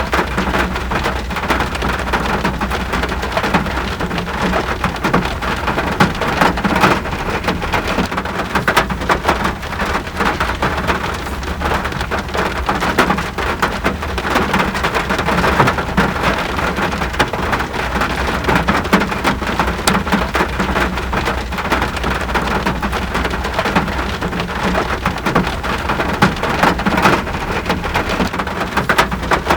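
Steady rain falling, an even hiss dense with the ticks of individual drops striking close by, over a constant low rumble.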